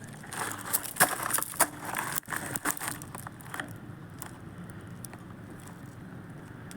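Bonfire of tree branches crackling and popping: a dense run of sharp snaps over about three seconds, thinning out to only a low steady background noise.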